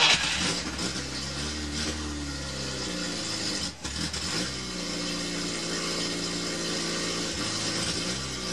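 Škoda 130's four-cylinder engine catching and running, its revs rising and falling unevenly; about four seconds in the revs drop sharply for a moment before it picks up again and runs steadily.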